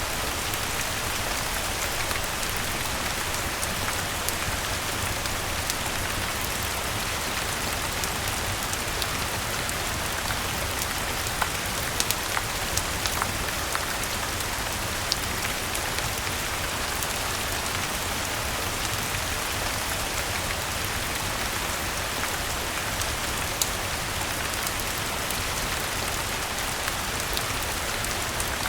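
Steady rain falling on garden leaves, an even hiss, mixed with a fireplace crackling: scattered sharp ticks and pops throughout.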